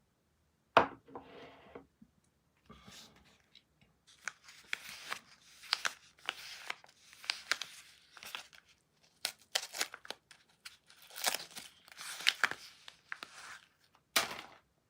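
Soap packaging being torn open and crinkled by hand: a sharp tear about a second in, a long run of short rustling tears and crinkles, and another sharp tear near the end.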